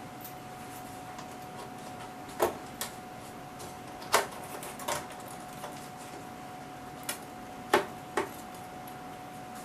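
Irregular sharp knocks and clicks, about seven in all, of metal instrument cover panels and hardware being handled and fitted back onto the HP 3245A.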